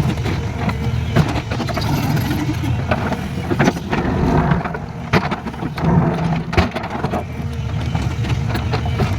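Excavator's diesel engine running steadily under load, with scattered sharp knocks and clatters from the digging work.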